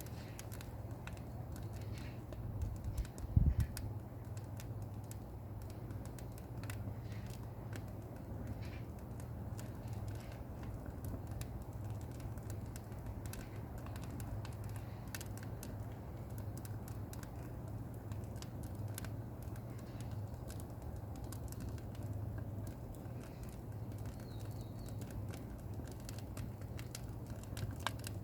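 Small pine firewood fire crackling with sparse, irregular pops and ticks over a steady low hum. One low thump about three seconds in.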